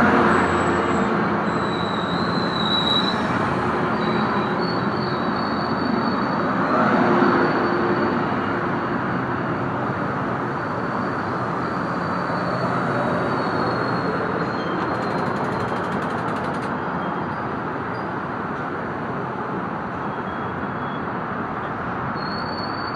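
Coaster commuter train's bilevel coaches rolling past and slowing to a stop, a steady rolling rumble that grows quieter. Thin high-pitched squeals from the steel wheels come and go as it brakes.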